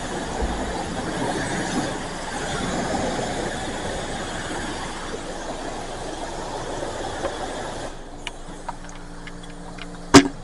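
High-pressure wand at a self-serve car wash spraying water onto the car, a steady hiss that stops about eight seconds in. A low hum and a few light clicks remain, with a loud click near the end.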